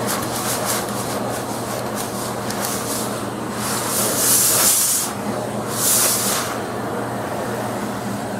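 Vacuum cleaner running steadily as its nozzle is worked over a cat's coat to suck up loose fur, with two louder surges of rushing air about four and six seconds in.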